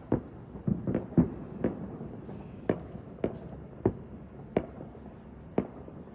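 Fireworks going off in the distance: a quick irregular run of sharp bangs and pops, thickest in the first second or two, then single reports every half second to a second.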